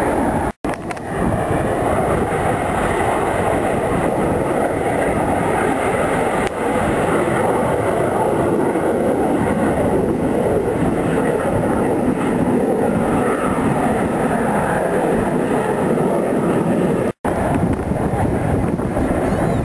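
Steady loud roar of Blue Angels F/A-18 Hornet jets in flight, mixed with wind on the microphone. The sound cuts out abruptly twice, about half a second in and near the end.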